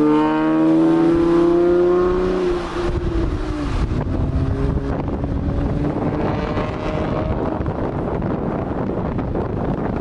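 Straight-piped Acura TL V6 under hard acceleration, the exhaust note climbing in pitch. It drops at a gear change about two and a half seconds in, climbs again more faintly, and gives way to road and wind noise.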